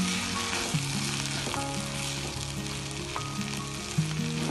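Mashed idli and vegetables sizzling in a coated frying pan while a silicone spatula stirs and tosses them through, with a steady frying hiss.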